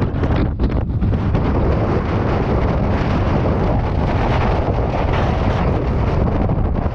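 Strong polar wind buffeting the microphone: a loud, continuous rush with a heavy low rumble and no let-up.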